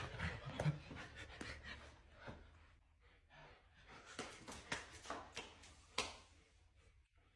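A dog, a pomsky, panting in short rasping breaths, with scattered sharp clicks among them.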